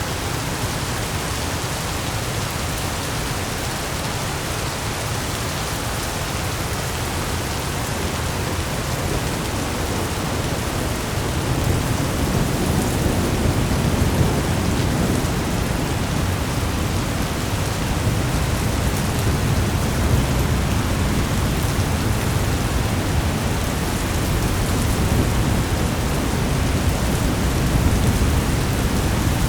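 Thunderstorm ambience: steady rain with low, rolling thunder that swells about a third of the way in and keeps rumbling.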